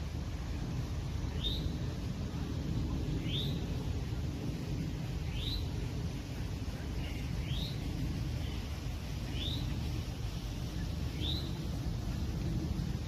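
A bird calling a single short rising note about every two seconds, over a steady low outdoor rumble.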